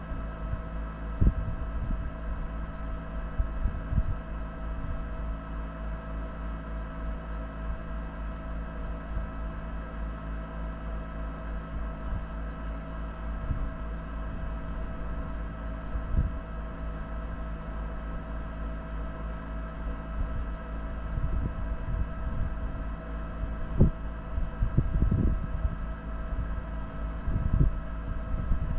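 A 4x4 vehicle's engine running steadily over a constant low rumble, with scattered knocks and thumps, typical of off-road driving on rough ground.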